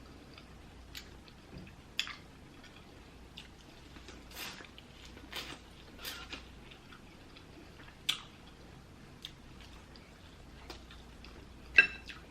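A person eating seafood close to the microphone: quiet chewing with scattered wet mouth smacks and clicks.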